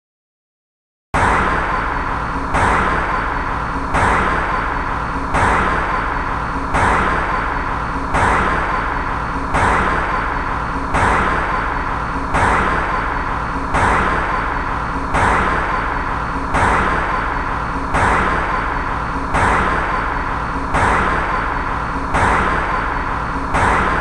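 Road and engine noise of a passing car, a clip about a second and a half long looped over and over, each repeat starting with an abrupt jump in level. It begins after about a second of silence.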